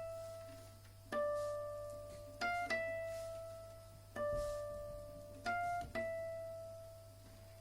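Nylon-string classical guitar playing a slow, sparse melody of single plucked notes, each left to ring and fade before the next, with two quick notes close together twice. A faint steady low hum lies underneath.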